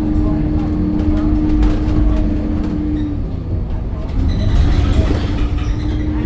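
Scania K270UB city bus's five-cylinder diesel running under way, a heavy low rumble with a steady whine over it. The whine drops out about three seconds in and returns about a second later.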